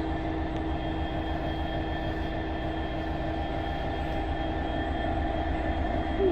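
Class 66 diesel-electric locomotive, its two-stroke EMD V12 engine idling steadily while stationary: a constant low rumble with a steady hum.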